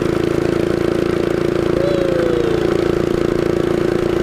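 Minibike's small engine running at a steady, low speed while riding slowly, an even hum with no revving. A short faint falling tone sounds about two seconds in.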